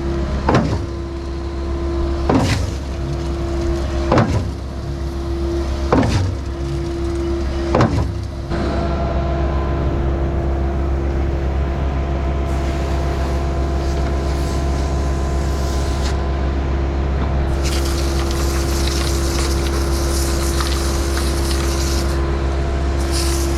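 Skid-steer-powered Mud Demon concrete pump stroking, with a sharp clunk about every two seconds as it shifts, until it stops about eight seconds in while the engine keeps running with a steady hum. From about seventeen seconds in, a hiss of spraying water joins it, typical of washing out the pump.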